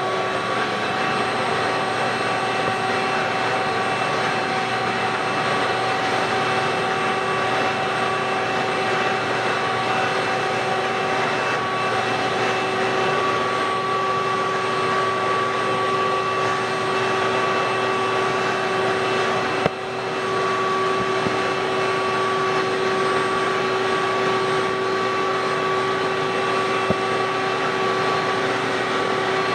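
Electric floor-cleaning machine running steadily on carpet: a constant motor whine over a loud rushing hiss, with a brief drop about two-thirds of the way through.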